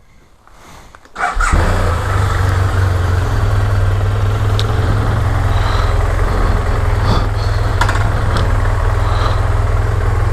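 Motorcycle engine started about a second in, catching at once and settling into a steady idle.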